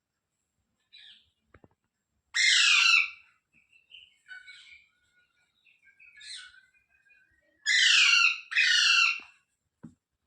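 Parrot calling: three loud screeching calls, each falling in pitch, one about two and a half seconds in and two back to back near the end, with soft chirps between.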